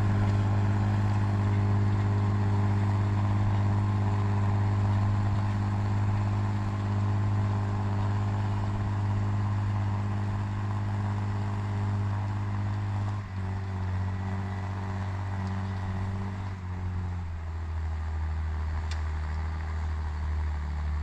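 Fendt tractor engine running steadily while ploughing, its pitch stepping down about two-thirds of the way through and again shortly after.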